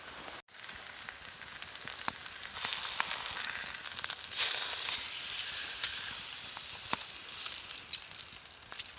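Food sizzling in a hot pan over a fire: a steady hiss that swells twice, dotted with sharp pops and crackles.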